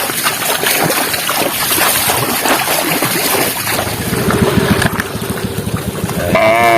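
Water splashing and sloshing in a basin as a plastic toy animal is washed by hand, with a short pitched voice-like call near the end.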